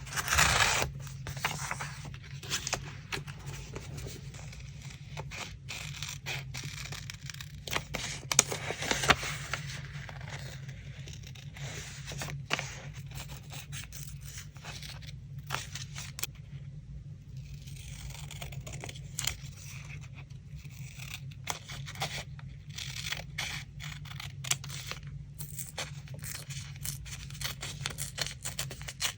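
Paper being handled for a collage: irregular rustling, scraping and tearing of paper, with louder bursts just after the start and about eight seconds in. A steady low hum runs underneath.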